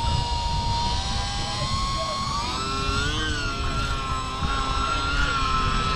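Micro RC STOL airplane's small electric motor and propeller whining, its pitch rising about two and a half seconds in and then holding higher. Strong wind buffets the microphone with a low rumble underneath.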